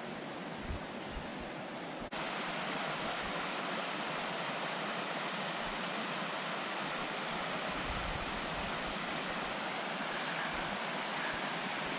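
Steady rush of a flowing river, an even noise with no distinct events, dropping out briefly about two seconds in and then continuing slightly louder.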